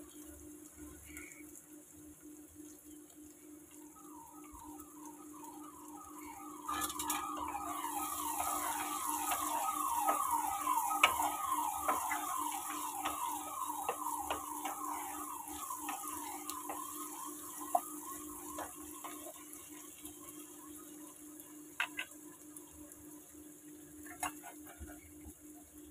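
Prawns and chopped tomato sizzling in oil in a non-stick wok as a spatula stirs them. The sizzle swells about seven seconds in and slowly fades, with a few sharp knocks of the spatula on the pan. A rapid run of short, falling squeaks, about three a second, goes on through the middle, over a steady low hum.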